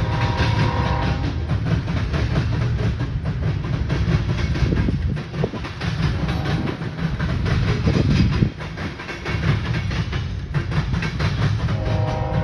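Union Pacific manifest freight train passing close: a loud steady rumble with rapid clacking of wheels over the rails. The locomotive's multi-note air horn sounds at the start, stops about a second in, and sounds again near the end.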